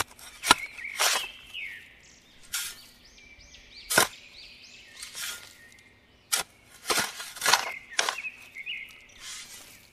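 Small hand trowel digging into damp sand: about nine short scraping, crunching strokes at irregular intervals as the blade cuts in and lifts out clumps.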